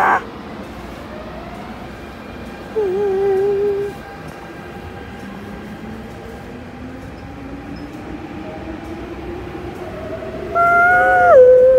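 Adtranz-CAF EMU metro train pulling out of the station, its traction motors giving a whine that rises steadily in pitch as it accelerates away. A short wavering tone sounds about three seconds in, and a louder sound with several pitches starts near the end and drops in pitch.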